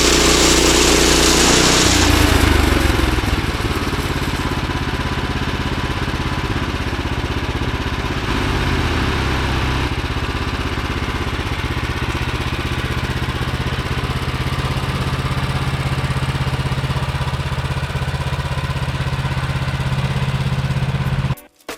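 Bandsaw sawmill running on its small gasoline engine while the blade cuts a walnut log. The high hiss of the cut drops away about two seconds in, and the engine runs on steadily until the sound cuts off abruptly just before the end.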